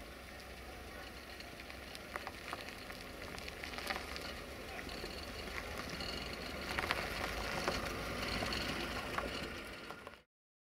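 Distant rail noise from a freight train out of sight: a low rumble with scattered clanks and faint squeals, growing a little louder, then cutting off suddenly near the end.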